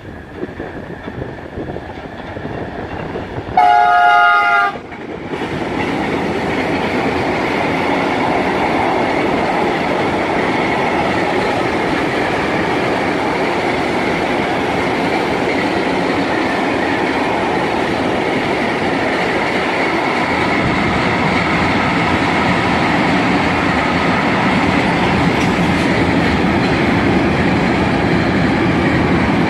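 A locomotive horn sounds once, a blast of about a second with several tones together, and then a freight train passes close by: a loud, steady rumble of wagons running over the rails.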